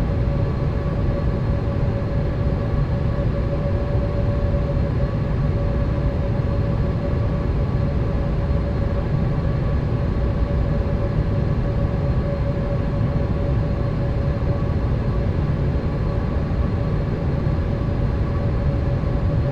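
Boeing 787 cabin noise in flight: a steady low rumble of engines and airflow with a constant hum over it.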